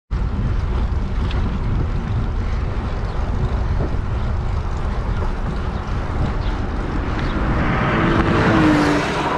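Steady road and engine rumble from a moving car, as picked up by a dashcam, with hiss over a heavy low rumble. Near the end the noise swells and a brief steady tone sounds.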